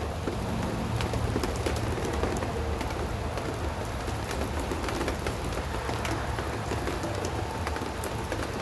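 Rain shower falling steadily, with individual raindrops striking close by as many short, distinct ticks over an even hiss.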